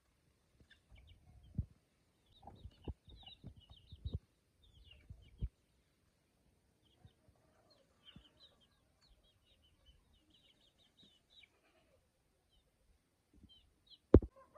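Birds chirping in many short, high peeps, with scattered dull low thumps and scuffs through the first half and one sharp knock near the end.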